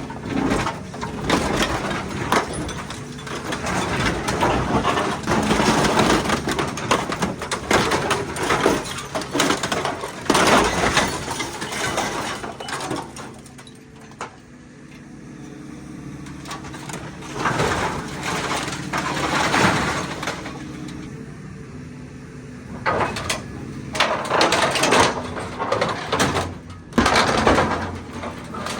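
Heavy machine engine running under many irregular crashes, clanks and scraping noises, typical of scrap metal being torn and crushed; the crashing eases off for a couple of seconds about halfway through.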